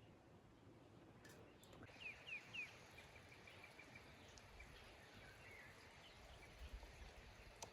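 Faint bird calls: three quick swooping high notes about two seconds in, followed straight away by a rapid trill of short notes, with a few softer chirps later over a quiet outdoor background.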